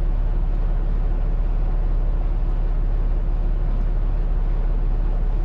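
Semi-truck engine running with a steady low drone, heard from inside the cab.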